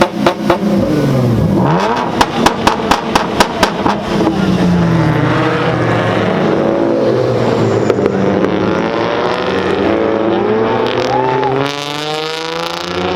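Car engine revving up and down, with runs of loud, regular pulses, about four or five a second, in the first few seconds.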